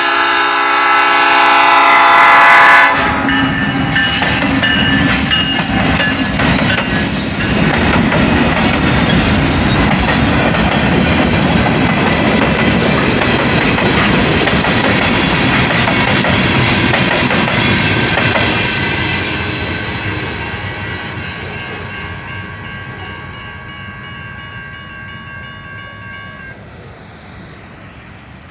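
Freight train passing close by. Its horn sounds for the first few seconds and cuts off, then the short string of cars rumbles and clatters over the rails. The rumble fades away over the last ten seconds as the train recedes. A steady ringing tone holds under it and stops shortly before the end.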